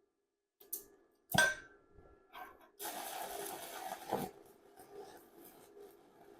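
Stick welding with a 1/8-inch 7018 electrode at about 110 amps on a Tooliom TL-200T inverter welder: a sharp metallic clack with a brief ring about a second in, then the arc strikes and runs as a steady crackling hiss from about three seconds in, settling quieter with scattered pops.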